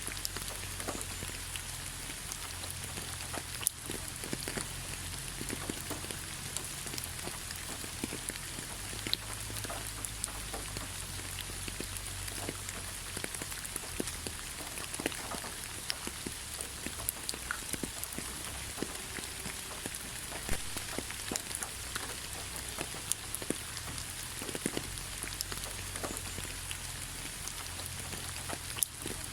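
Steady rain falling in a forest: a constant hiss with many separate drops ticking close by, over a low rumble.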